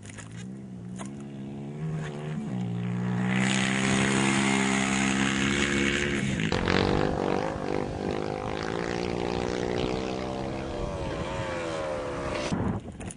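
Off-road rally motorcycle or quad engine revving hard as it comes closer, holding high revs at its loudest, then dropping sharply in pitch about halfway through and falling again near the end as it passes and moves away.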